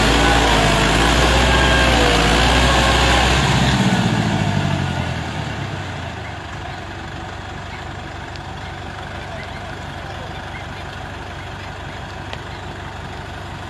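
Tractor's diesel engine running loud with a wavering pitch, then falling away after about four seconds to a steady, quieter low engine note.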